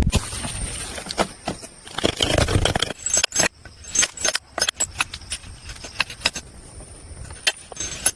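Irregular sharp knocks and clicks, sparse at first and coming more often from about three seconds in, over a faint steady high tone.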